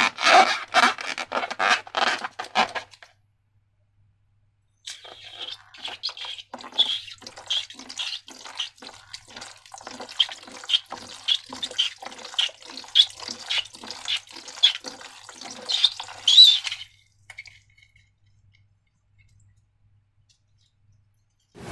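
Sticky slime squelching and clicking as it is squeezed and worked by hand. A dense run of sticky clicks comes first, then after a pause a steady series of wet squelches at about two a second, which stops a few seconds before the end.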